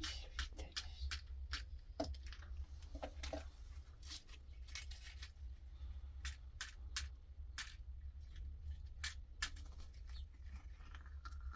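A series of irregular sharp clicks and snips, several a second at uneven spacing, over a steady low hum.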